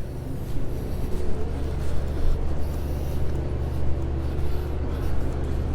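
Steady low rumble of a motor vehicle engine running close by, over street noise.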